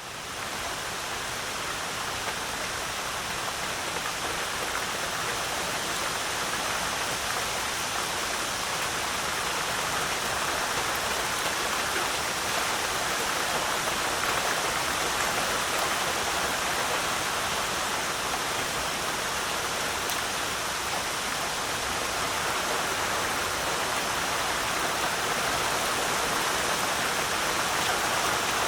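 Heavy rain falling steadily, a dense even hiss that fades up at the very start.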